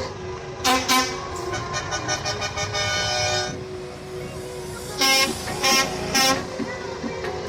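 Truck air horn blowing in a series of blasts: two quick toots about a second in, a longer pulsing blast, then three short toots near the end.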